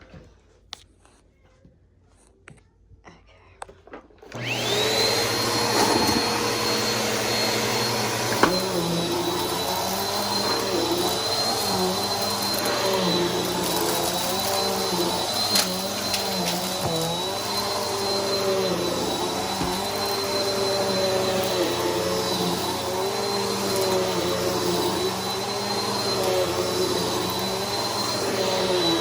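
Bissell PowerForce Helix upright vacuum cleaner switched on about four seconds in after a few faint clicks. Its motor spins up to a steady high whine and keeps running, with its lower tone rising and falling in a regular rhythm.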